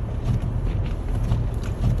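Car driving over a deep-snow road, heard from inside: a steady low rumble with irregular crunching knocks as the tyres push through the snow.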